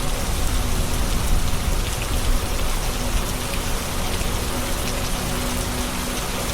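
Steady heavy rain falling and pattering on hard surfaces, with a low rumble underneath.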